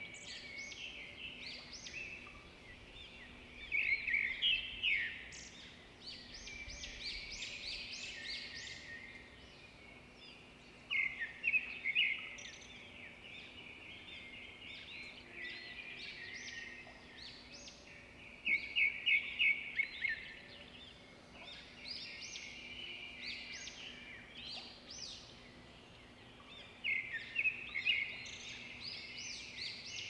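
Birds chirping: dense clusters of quick, high chirps about every seven to nine seconds, with quieter chirping in between, over a faint steady hum.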